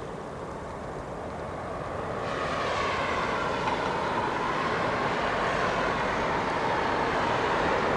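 Boeing 787-9 airliner's jet engines heard on its landing approach: a steady rushing noise with a faint whine that grows louder from about two seconds in as the plane comes closer.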